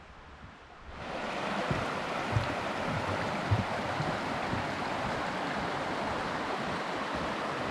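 Steady rushing of stream water that comes in abruptly about a second in and holds even, with a few soft low thumps under it.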